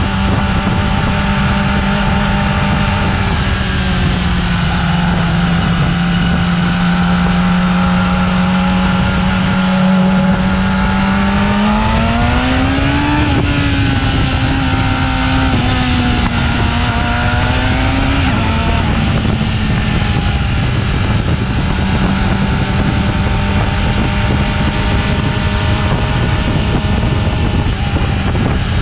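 Stock Yamaha YZF-R6 inline-four engine running at steady, fairly high revs. The engine note dips slightly, then rises for a few seconds around the middle and eases back to its earlier steady pitch.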